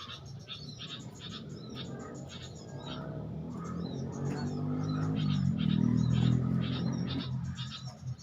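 Small birds chirping in quick, repeated short calls throughout. A low pitched hum swells from about halfway, becomes the loudest sound around three quarters of the way in, then fades before the end.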